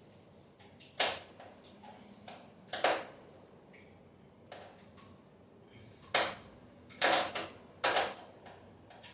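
A series of sharp knocks and clanks, about six at irregular intervals, the loudest a cluster near the end.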